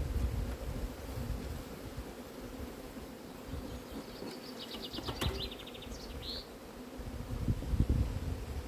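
Honeybees buzzing in a steady hum around an open, crowded hive, with low rumbling that is loudest near the end. A short run of rapid high ticks comes about four seconds in.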